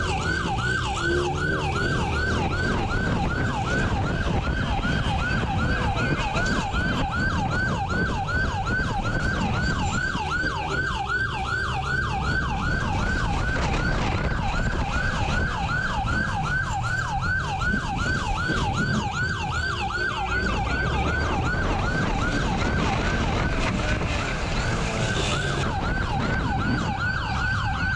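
Police siren on a fast yelp, about three rising sweeps a second, with engine and road rumble underneath.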